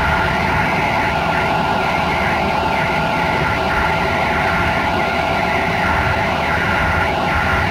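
Passenger train running at speed: a steady rumble of wheels on the rails with a constant whine over it.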